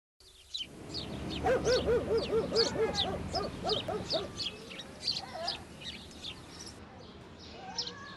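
Birds chirping, with a run of quick, repeated lower calls through the first half.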